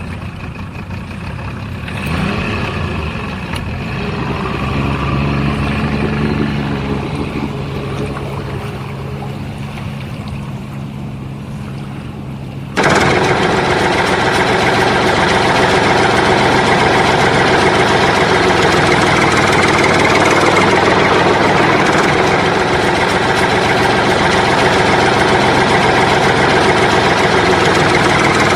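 A heavy vehicle engine runs steadily, then about thirteen seconds in it changes abruptly to a louder, rougher running that holds to the end.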